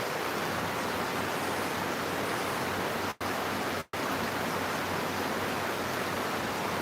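Steady rain falling, an even hiss. It cuts out to silence twice, very briefly, a little past three seconds in and again just before four seconds.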